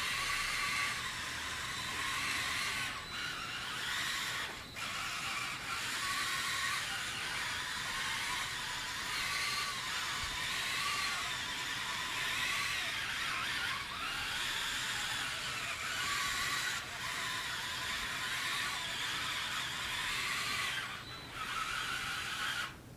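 Small electric micro-motors and their plastic gearing driving a motorized LEGO tracked truck: a high whine that rises and falls in pitch as the speed changes, dropping out briefly a few times.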